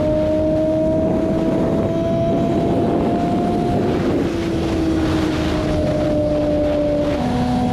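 BMW S1000RR inline-four engine running at a steady highway cruise, with wind rushing over the microphone. Its note climbs slowly, eases back a little, then drops in pitch near the end.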